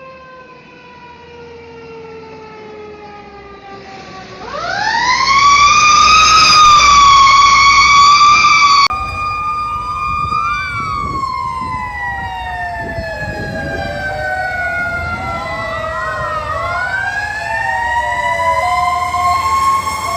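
Fire engine sirens wailing. A siren winds down, then about four seconds in another winds up steeply and holds loud for several seconds; after a sudden drop, softer sirens fall slowly while another sweeps quickly up and down twice, and one winds up again near the end.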